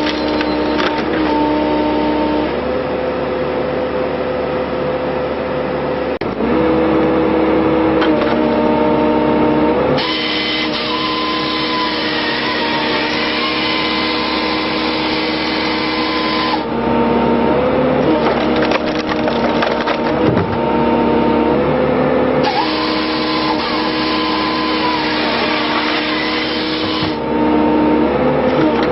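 Excavator engine and hydraulics running steadily under load while a firewood processor head works logs, with wood cracking and splitting. The sound changes abruptly several times.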